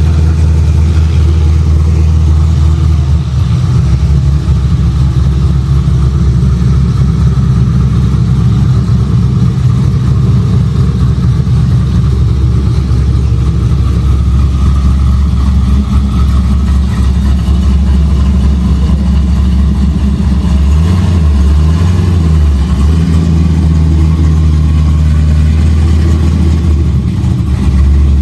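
Car engine idling loudly and steadily, with a brief change in pitch about three-quarters of the way through.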